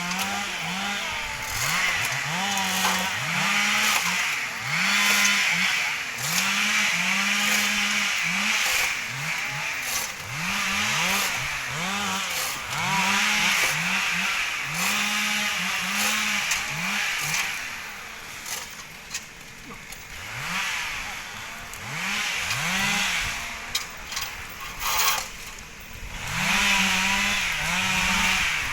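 Two-stroke chainsaw cutting wood, revved up in quick bursts about once a second and easing off between them. Past the middle it drops low for several seconds with a few sharp knocks, then revs in bursts again near the end.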